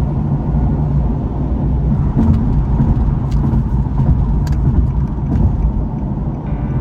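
Car driving at a steady pace: a loud, steady low engine and road drone, with a few faint ticks.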